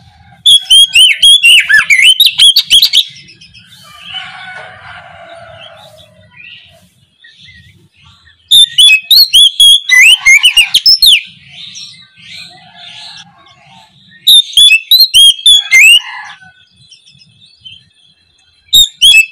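Oriental magpie-robin singing: loud bursts of rapid, varied whistled phrases, four of them with pauses between, and quieter chattering notes in the gaps.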